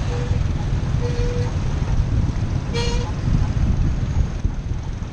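A vehicle horn toots three times, short beeps about a second apart, over a steady low rumble of road traffic.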